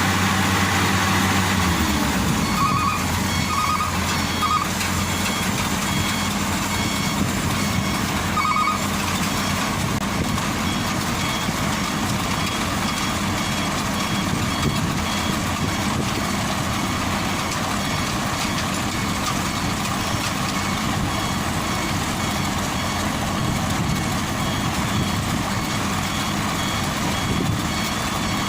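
A heavy vehicle's engine runs steadily, its note dropping about two seconds in. A reversing alarm beeps on and off over it.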